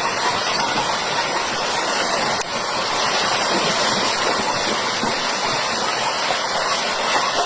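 Steady rush of flowing water, with a brief dip about two and a half seconds in.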